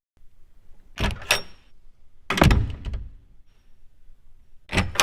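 A series of knocks and thuds: two close together about a second in, a heavier thud about two and a half seconds in, and another knock near the end.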